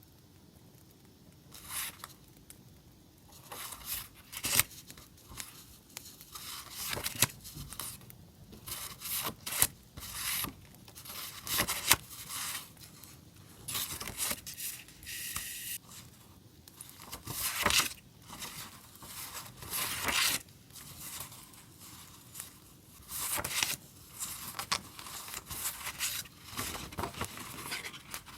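Paper and sticker sheets being handled, rubbed and pulled apart in irregular rustling, scraping strokes, starting about a second and a half in.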